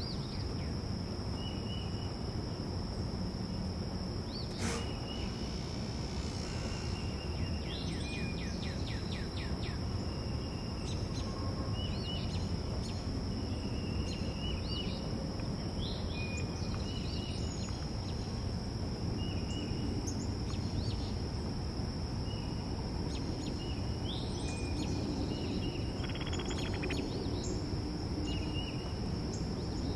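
Backyard birds chirping: short calls repeat every second or two, with a rapid trill about seven seconds in and another near the end. Under them run a steady high-pitched whine and a low background rumble.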